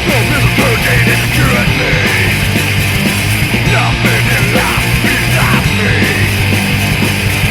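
Loud punk rock recording from a full band of guitar, bass and drums, playing without a break.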